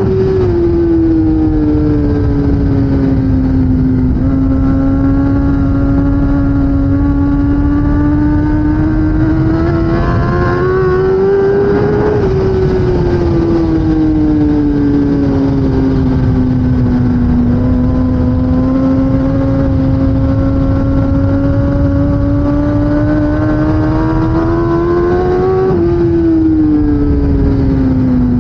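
2016 Kawasaki ZX10R inline-four superbike engine under racing load, its pitch climbing slowly for several seconds, dropping off about 12 seconds in and again near the end, over heavy wind rumble.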